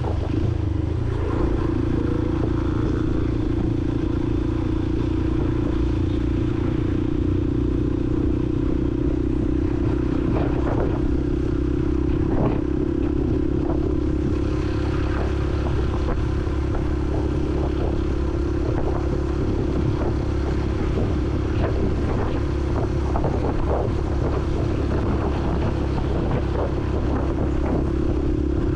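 Honda CRF150L's single-cylinder four-stroke engine running at a steady, even pace while the bike is ridden, with occasional short rattles and clicks.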